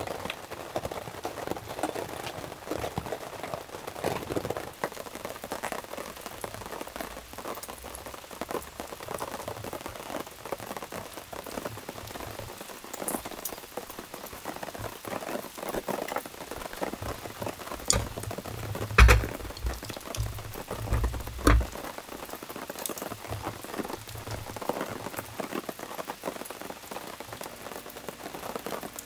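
Steady rain pattering, a dense crackle of fine drops. About two-thirds of the way in comes a short cluster of low thumps with a sharp click, louder than the rain.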